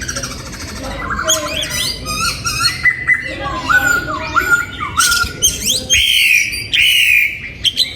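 Oriental magpie-robin singing: a varied run of clear whistled notes, quick slurs and rapid trills, with two longer, harsher notes about six and seven seconds in.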